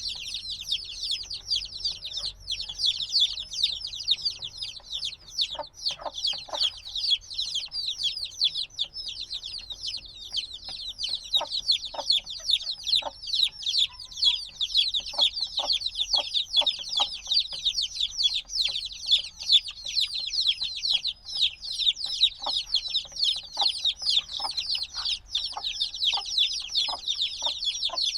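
A brood of chicks a few days old peeping continuously, many short high falling chirps overlapping, with a few lower single peeps scattered through.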